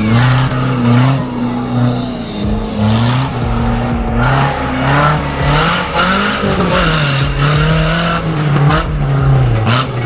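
Off-road competition 4x4's engine revving up and down under load, its pitch rising and falling over and over, with a falling whine in the first second or two.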